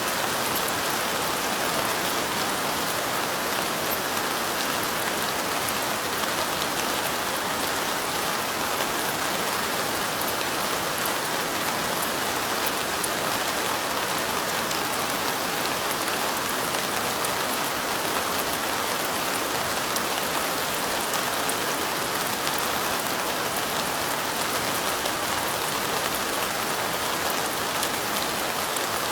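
Steady light rain: an even hiss with fine, scattered ticks of drops.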